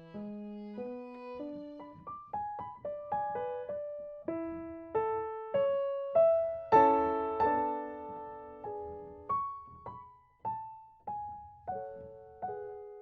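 Background music: a slow, gentle solo piano melody, each note struck and left to fade, with a fuller chord about seven seconds in.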